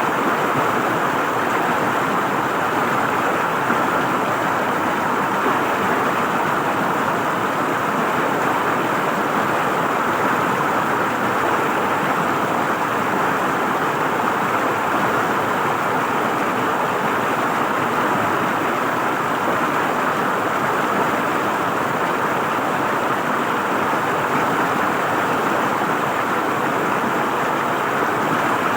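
River water flowing and gurgling: a steady, even rush of moving water.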